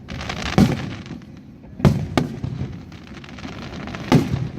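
Aerial fireworks shells bursting: four sharp booming bangs at uneven intervals, about a second or two apart, each trailing off in a hiss.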